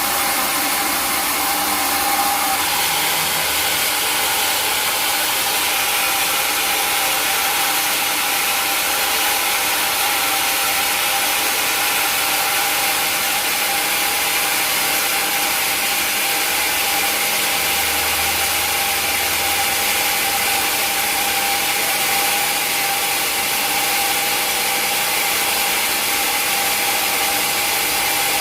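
Sawmill machinery running steadily, a saw with its engine, with a constant whine over the noise and no change in level.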